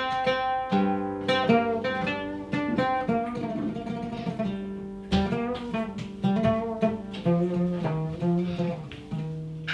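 A restored 1952 Damascus oud played solo: a melody of plucked notes, each ringing and dying away, the strings sounding clean after the repair, with a harder pluck about halfway through.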